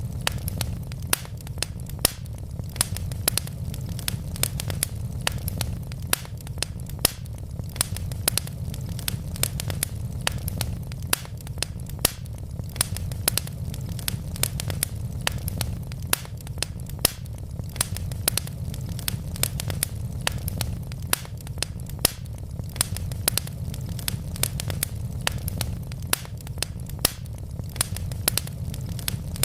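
Wood logs burning in a fireplace: a steady low rumble of flame with frequent sharp crackles and pops, several a second.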